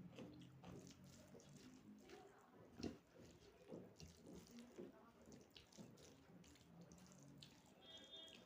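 Faint eating sounds: wet chewing and mouth smacks with small clicks, one a little louder about three seconds in.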